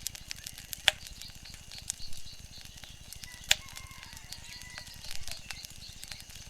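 Wood fire crackling, with a steady scatter of small sharp crackles and two louder pops, one about a second in and one about three and a half seconds in.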